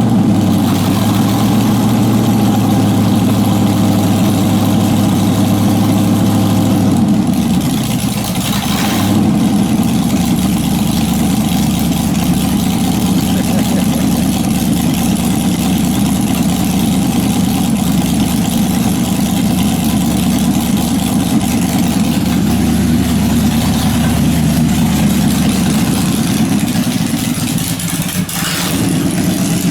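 A vehicle engine idling with a steady low note, its pitch shifting a little about seven seconds in and again about twenty-two seconds in.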